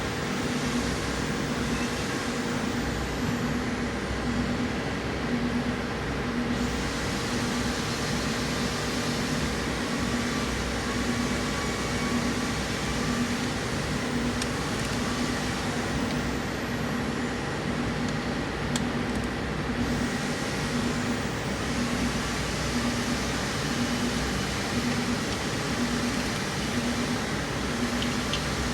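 Steady hum of a running machine, with a low tone pulsing about once a second over an even wash of noise.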